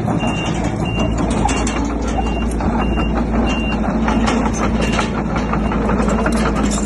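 A heavy machine's reversing alarm beeping about twice a second, stopping a little over halfway through, over a diesel engine running steadily. Metallic clanks and knocks come in with it, more of them after the beeping stops.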